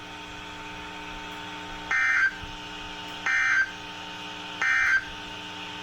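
Emergency Alert System (SAME) end-of-message data tones from a weather radio broadcast: three short, harsh digital bursts about 1.3 seconds apart, over a steady electrical hum. They mark the end of the severe thunderstorm warning.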